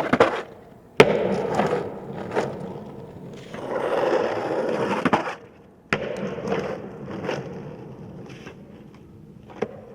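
Skateboard wheels rolling, with sharp clacks of the board being popped and landed, heard in short clips that start and cut off abruptly. The loudest clacks come about a second in and again around five to six seconds in.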